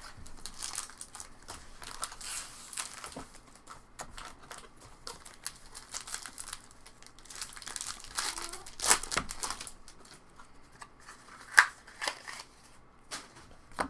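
Trading-card pack wrappers crinkling and cards being handled, an irregular scratchy rustle with a louder crinkle about nine seconds in and a sharp snap a couple of seconds later.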